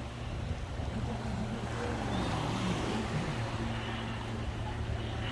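A boat engine running steadily with an even low hum, over a wash of wind and water noise.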